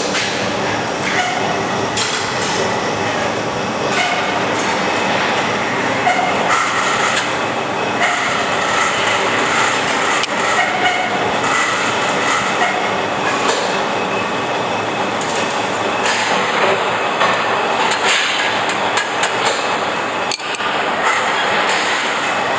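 Train running on rails: a steady rumble and clatter with scattered metallic clicks and clanks.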